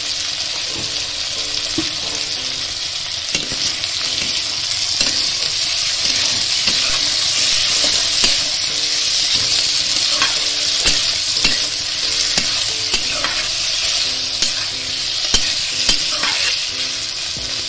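Chopped tomatoes and onions sizzling in hot oil in a metal kadai while a wooden spatula stirs them. The spatula scrapes and knocks against the pan now and then over a steady frying hiss.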